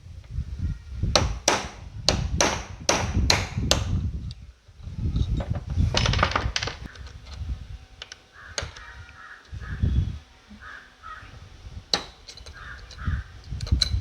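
A handleless screwdriver struck hard to cut through a spread rivet on a mixer grinder's motor bushing plate: a quick run of about eight sharp metal strikes in the first few seconds, then scraping and scattered lighter knocks.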